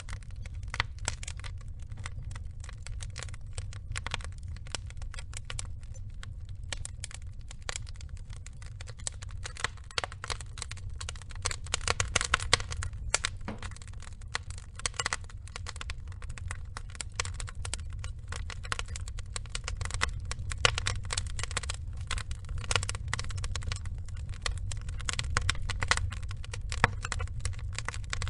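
Wood fire burning, the logs crackling and popping in a dense, irregular stream of sharp snaps over a steady low rumble. The crackling grows busier around the middle and again near the end.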